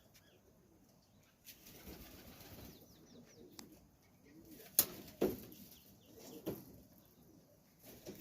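Pigeons cooing softly, with wings flapping and a few sharp clacks, the loudest about five seconds in.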